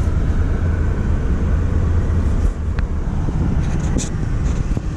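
A 2020 Mazda MX-5 Miata's four-cylinder engine idling, a steady low rumble heard from inside the cabin, with a few light clicks in the second half.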